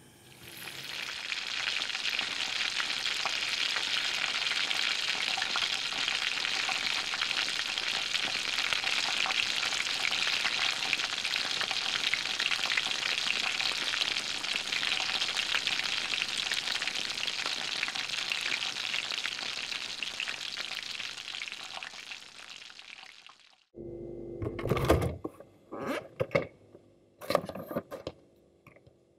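Breaded chicken cutlet deep-frying in a pan of hot oil: a dense, steady sizzle and crackle that starts as it goes into the oil and cuts off abruptly about twenty-three seconds in. Near the end come a few sharp knocks and rattles over a low hum, from items handled on a refrigerator door shelf.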